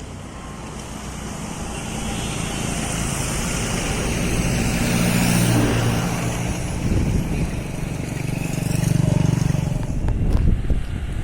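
Motor vehicle engine hum growing steadily louder as it approaches and passes, loudest about halfway through, with a second swell near the end.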